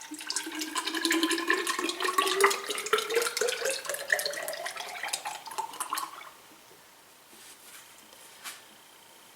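Shock oil being poured into an FOA coilover shock body, gurgling and bubbling, with a pitch that rises steadily as the tube fills; the pour stops about six seconds in.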